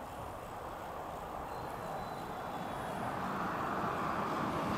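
Distant train approaching on the rails, its rumble a steady noise growing gradually louder.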